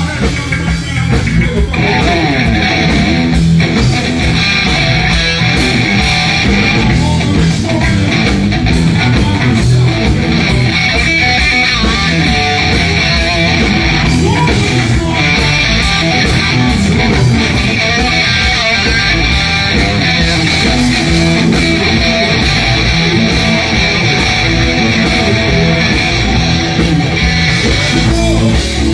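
A live rock-blues band plays an instrumental stretch without singing, with electric guitar over bass and drums.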